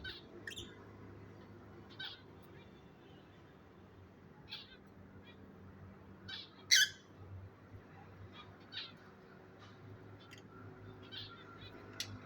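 Lovebirds giving short, high chirps and squawks at irregular intervals, about a dozen in all, the loudest about seven seconds in.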